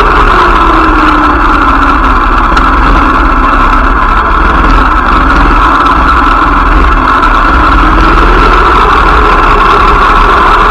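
Motorcycle engine running on a ride. Its pitch drops over the first couple of seconds as it slows, holds low through the middle, and climbs again near the end as it speeds up.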